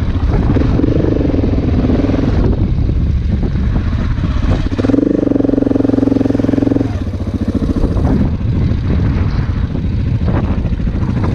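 Big single-cylinder dual-sport motorcycle engine running while riding, with a stretch of stronger, steady engine note from about five to seven seconds in and scattered clatter over the rough track.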